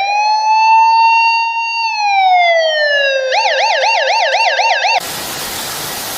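Electronic emergency siren: a wail that rises, holds and falls, then switches about three seconds in to a fast warble of about five cycles a second. It cuts off suddenly near the end, giving way to a steady rushing noise.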